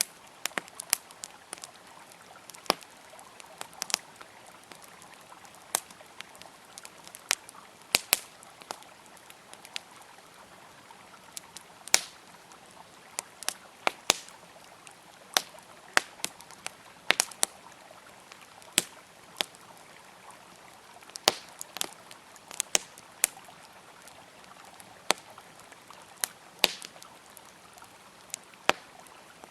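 Wood campfire crackling, with irregular sharp pops and snaps, some much louder than the rest, over the steady rush of a flowing river.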